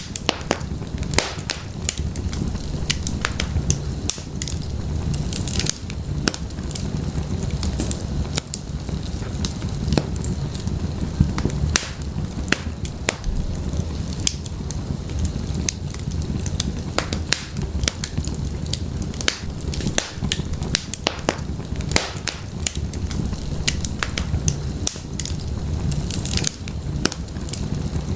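Wood fire burning in an open fireplace: steady low rumble of flames with frequent irregular crackles and pops from the burning firewood.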